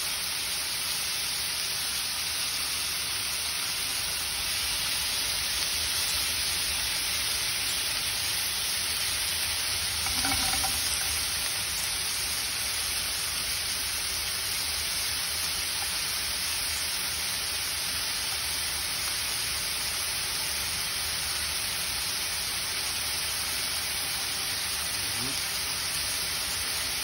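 Cubed pork belly sizzling steadily as it fries in a pan, rendering out its fat.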